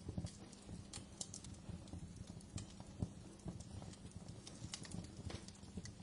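Wood fire crackling in a fireplace: irregular pops and snaps over a steady low rumble of the flames, with a sharper pop about three seconds in.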